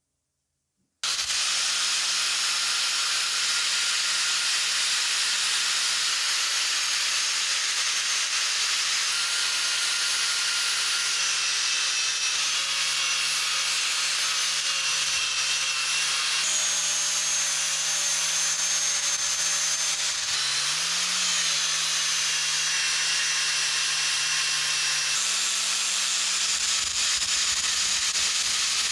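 An abrasive power tool running and sanding or grinding, a steady hissing rasp over a motor hum, starting about a second in. Its pitch shifts slightly at several cuts.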